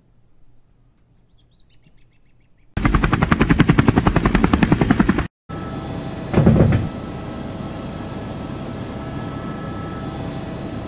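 Animation sound effects: a loud, rapid, evenly spaced pulsing lasts about two and a half seconds and cuts off suddenly, followed by a steady humming room ambience with one short thud about a second later.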